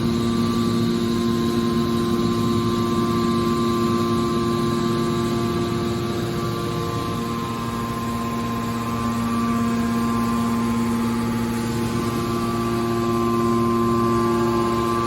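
Hydraulic scrap steel baler running, its hydraulic power unit giving a steady hum with a few constant tones, swelling slightly in level near the end.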